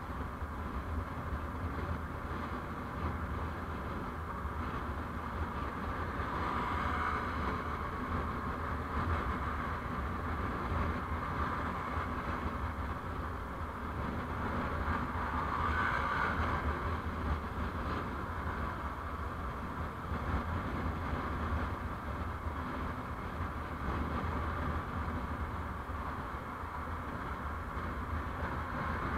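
Steady road noise from a moving vehicle: a low rumble under a tyre and wind hiss that swells briefly twice, about seven and sixteen seconds in.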